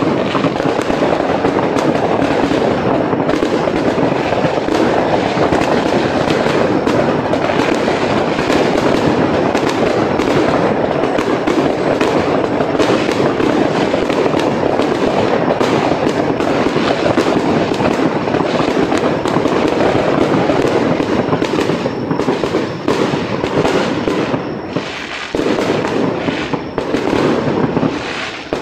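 Aerial fireworks going off in a dense, continuous stream of crackling and popping, many small bursts overlapping. It eases a little in the last few seconds.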